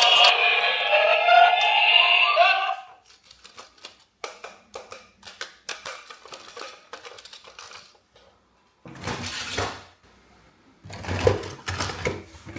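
Music with a synthetic singing voice that stops a few seconds in, followed by irregular clicks and rattles of plastic toys being handled, with a short rustling burst midway.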